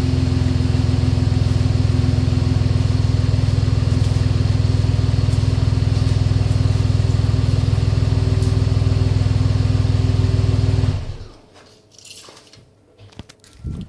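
Chevrolet Colorado ZR2's engine idling steadily through a GM performance exhaust, with a deep low exhaust note. It stops abruptly about eleven seconds in, leaving a few faint small sounds and a short low thump near the end.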